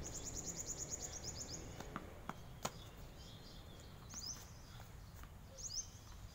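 A small bird calling: a fast trill of high chirps at the start, then two short chirps later. A few sharp knocks of a tennis ball off a racket and the court come about two seconds in, over a low background hum.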